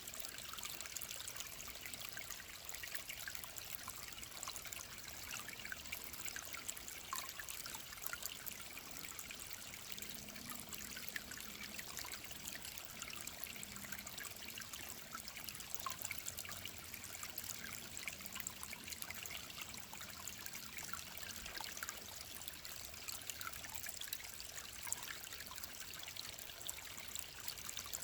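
Mountain stream trickling, a steady wash of running water full of small splashes and bubbling ticks.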